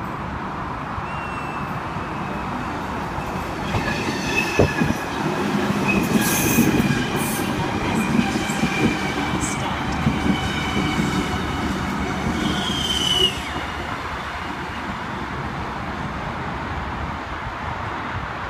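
V-set double-deck electric intercity train passing through the station without stopping, its wheels rumbling on the rails. From about four seconds in, the wheels add high squeals, which end in a short rising squeal that cuts off sharply about two-thirds of the way through. A steadier rumble follows as the train moves off.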